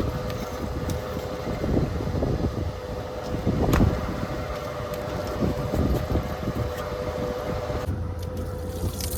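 A motor running steadily with a constant hum and low rumble, and a few scattered knocks and clunks. The sound changes abruptly near the end.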